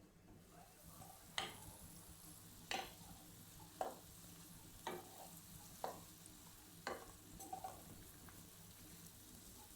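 Faint frying of onions in oil in a pan, with a series of light, sharp knocks about once a second.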